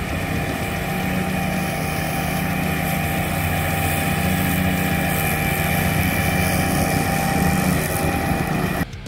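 Kubota ZD28 zero-turn mower's diesel engine running steadily, with no chirp from the mower deck after the loose blade was re-torqued. It cuts off abruptly near the end.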